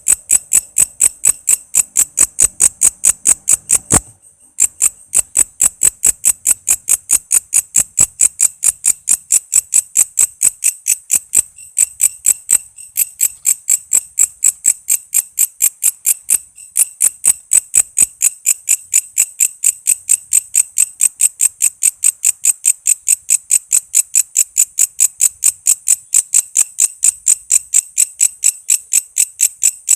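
Walang kece insect calling in a fast, even series of short, sharp, high-pitched chirps, about four to five a second, with one brief pause about four seconds in.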